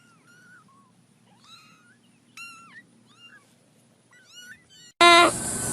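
A kitten mewing: a string of short, high mews, each rising and falling in pitch. About five seconds in, a much louder quavering call cuts in abruptly.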